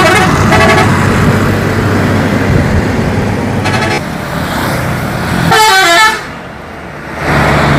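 Bus horn sounding several short multi-note blasts over a running engine; the last blast, about six seconds in, steps through a few notes like a tune.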